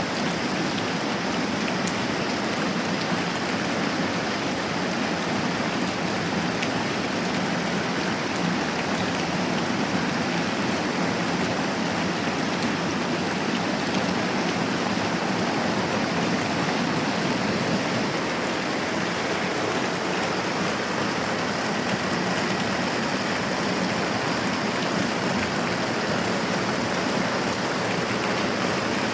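Moderate rain falling steadily, an even unbroken hiss.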